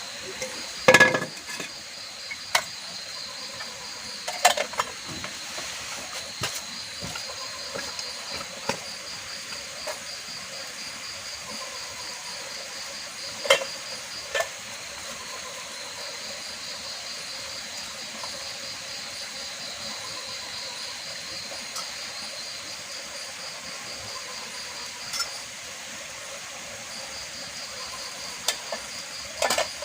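Insects chirping in a steady high pulsing trill that pauses briefly a few times, with a handful of sharp clinks of cookware scattered through it, the loudest about a second in.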